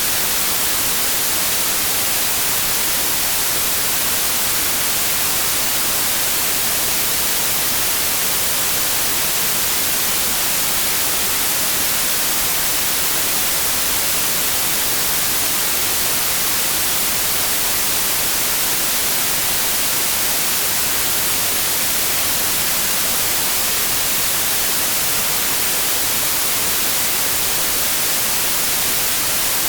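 Steady white noise: an even, unbroken hiss, strongest in the high range, with no change in level.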